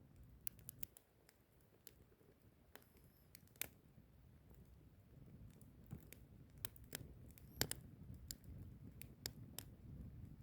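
Wood fire crackling softly: scattered sharp pops and snaps from burning firewood at irregular intervals, the loudest a little past seven and a half seconds in, over a low, steady rumble of flame.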